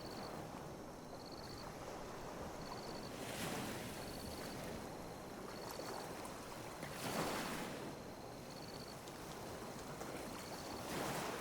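Calm sea waves lapping on a beach: a steady wash of water with gentle surges about three, seven and eleven seconds in, the one about seven seconds in the loudest.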